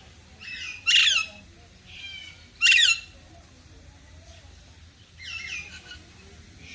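Parrots squawking: about four short, harsh calls, the two loudest about a second in and just before three seconds in.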